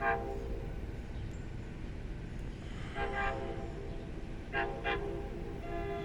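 Locomotive air horn sounding a series of blasts: one ending just after the start, a half-second blast about three seconds in, two quick short toots, and another beginning near the end. The approaching train rumbles steadily underneath.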